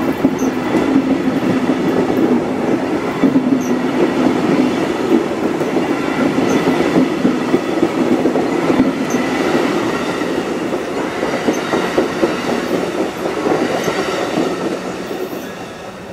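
Train cars rolling past on the rails, wheels clicking over the rail joints with a thin squeal, fading away near the end.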